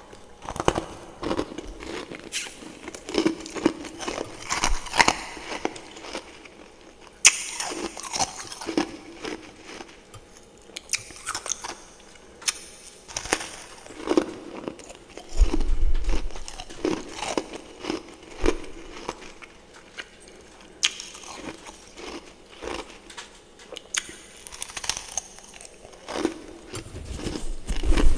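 Close-up ice-eating ASMR: a person biting and chewing chunks of refrozen freezer frost topped with fresh powdery frost. The crunches come in irregular bursts, some sharp and loud, with crackling between bites.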